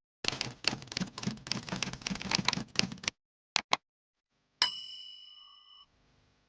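A rapid run of sharp clicks for about three seconds, then two quick clicks, then a single bell-like ding that rings and fades.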